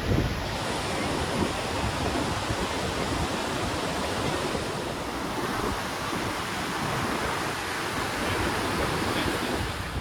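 Steady rush of the James River's water running over rocks and rapids below the bridge.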